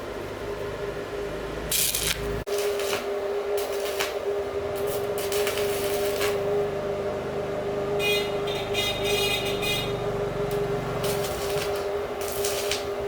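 A machine's motor running with a steady hum, broken every second or two by short bursts of noise and a longer rough, grating stretch about two-thirds of the way through.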